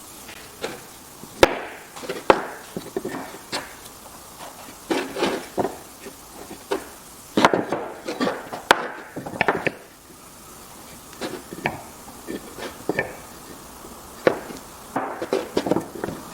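Irregular knocks and taps of wooden pieces and hand tools being handled and set down on a workbench, with a few sharper clicks among them.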